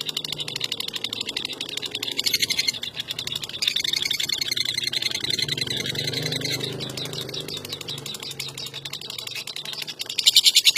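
Lovebird ngekek: a long, unbroken, rapid rattling chatter of shrill repeated notes. It swells louder about two seconds in, again from a few seconds in until past the middle, and near the end.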